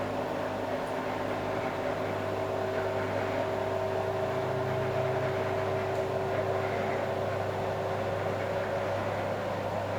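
Steady mechanical hum: a low drone with a couple of higher steady tones over an even noise.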